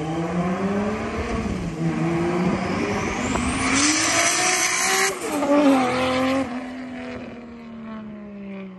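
Big-turbo 2JZ-GTE inline-six in a swapped Lexus GS300 under hard acceleration. The engine note climbs in pitch and drops back at several quick gear changes, is loudest about five seconds in as the car passes, then falls in pitch and fades as it drives away.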